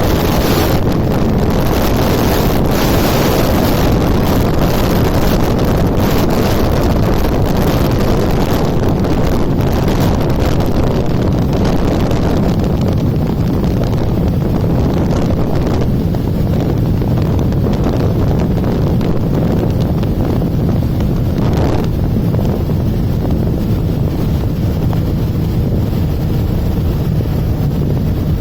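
Kawasaki Ninja motorcycle engine and exhaust running under way, with wind rushing over the microphone. The wind rush eases after about twelve seconds, leaving a steadier engine note.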